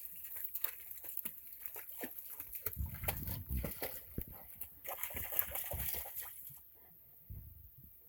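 Dog moving about and snuffling in a kayak, with irregular soft knocks and small water sloshes against the hull; it settles much quieter about six and a half seconds in.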